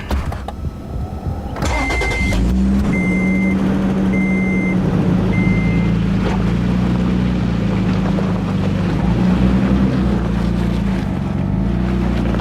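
Toyota truck's engine starting about two seconds in and then idling steadily, while a dashboard warning chime beeps four times about a second apart.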